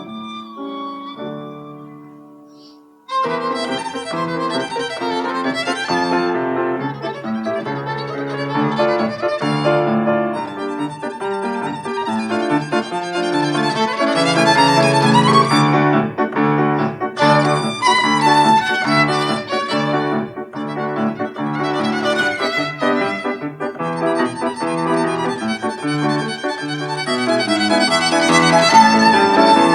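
Violin playing with piano accompaniment. A quiet phrase dies away, then about three seconds in the music comes in suddenly and runs on loud and busy.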